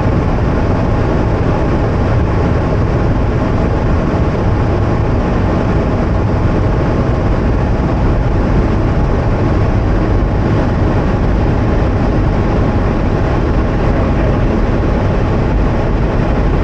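Automatic car wash machinery running, heard from inside the car: a steady, loud, even roar with a heavy low end.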